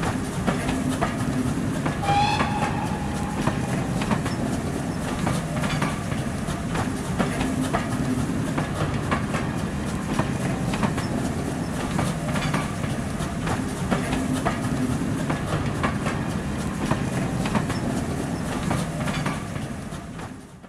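Full-size passenger train running past, a steady rumble with the clickety-clack of wheels over rail joints. A brief high tone sounds about two seconds in, and the sound fades out at the end.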